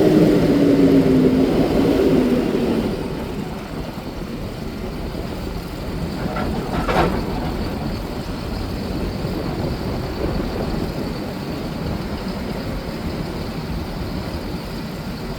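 Old Taylor forklift running, its engine note sinking over the first few seconds and then settling into a steady rumble, with a single clank about seven seconds in.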